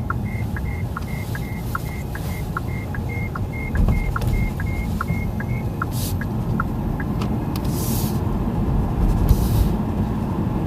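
Cabin road and tyre rumble of a QIANTU K50 electric car on the move, with no engine note. The rumble grows louder about four seconds in. A quick, regular electronic ticking runs for roughly the first half and then stops.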